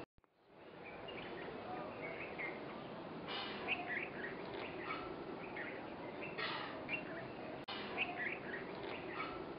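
Songbirds chirping and calling in short phrases over a steady background hiss. The sound cuts out at the very start and fades back in within about half a second.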